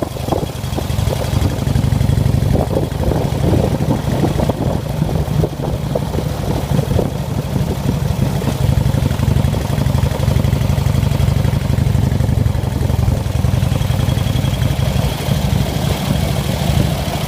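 1953 Indian Chief motorcycle's side-valve V-twin engine running steadily with a low, even, rapidly pulsing exhaust note.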